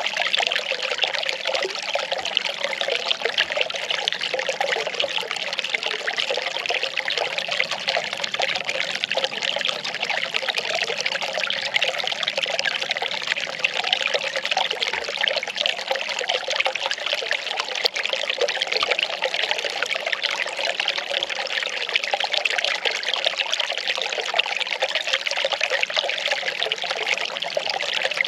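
Well water running and pouring steadily, without a break.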